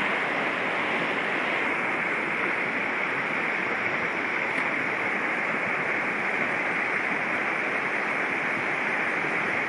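Fast mountain stream rushing steadily, a loud even roar of water.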